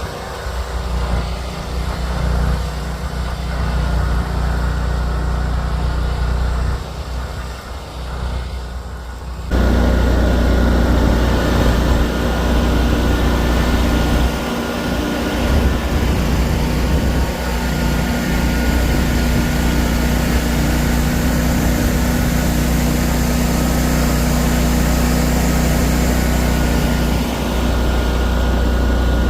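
Engine running steadily. About nine and a half seconds in, the sound jumps abruptly to a louder, steadier run with a thin high whine.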